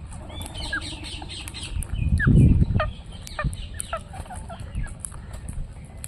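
Parrots calling in quick, short chirps and squawks, over a low rumble that swells loudly for about a second near the middle.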